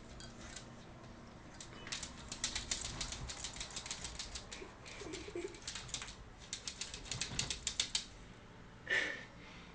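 A dog's claws clicking and scrabbling rapidly on a hard surface, many clicks a second, from about two seconds in to about eight seconds in, followed by one short louder sound near the end.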